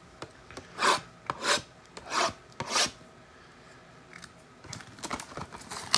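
Four short rasping rubs in the first three seconds, about two every second and a bit, as trading-card packs are handled and slid across each other, followed by a few faint handling sounds.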